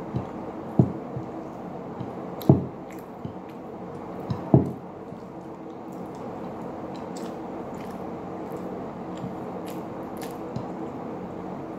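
Close, wet chewing and mouth smacking of a person eating stewed milkfish and rice by hand, with a few sharp low thumps in the first five seconds and small clicks later, over a steady low hum.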